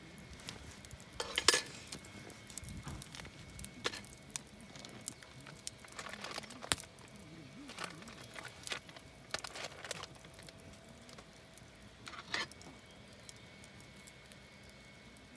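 Campfire crackling, with irregular sharp pops and snaps. The loudest snaps come about a second and a half in and again near the end.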